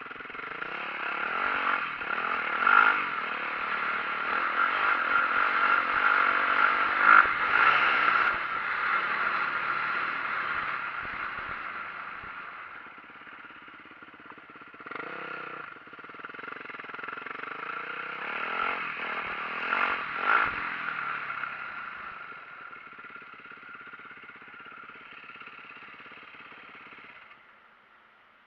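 2004 Yamaha YZ450F four-stroke dirt bike being ridden: the engine builds up, eases off, then builds again, with several sharp knocks and clatter from the bike over rough ground. The sound drops away sharply near the end.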